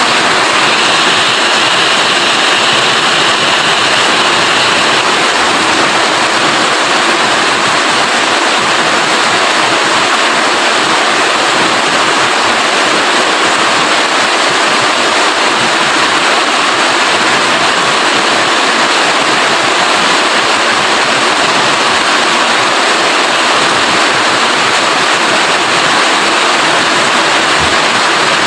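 Steady rain falling, a dense even hiss that doesn't change.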